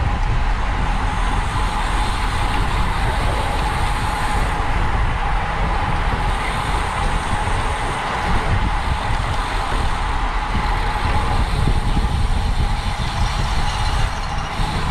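Wind rumbling on the microphone of a racing bicycle's onboard camera at speed, with a steady high tone running through it.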